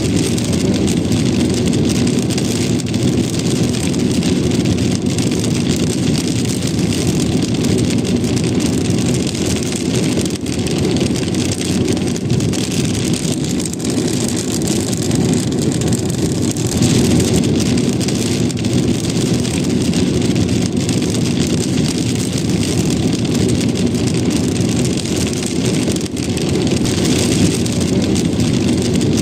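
Rain tapping on a car as it drives, over a steady low rumble of road and engine noise.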